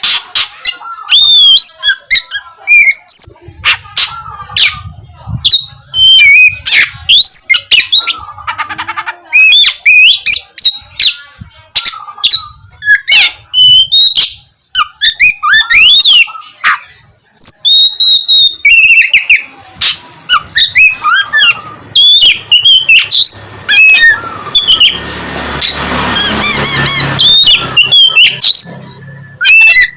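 Oriental magpie-robin (kacer) singing loudly and without pause: a varied run of clear whistles, rising and falling slurred notes and sharp clicky notes, with a harsh rasping chatter about three-quarters of the way through.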